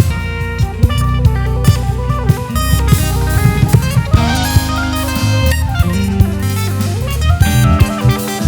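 Live band playing an instrumental: drum kit, bass and keyboards.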